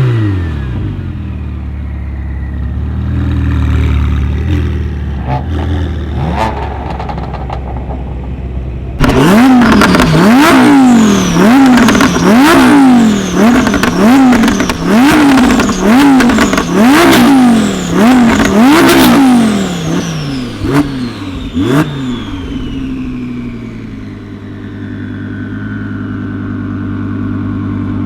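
Tuned car engine revved in quick blips about once a second for some ten seconds, with sharp exhaust pops and bangs, between stretches of rough, lumpy idle; it settles back to a steady idle near the end.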